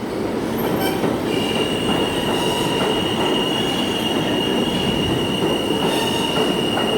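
Subway train running on the track: steady rail rumble, with a high-pitched wheel squeal that sets in about a second in and holds steady.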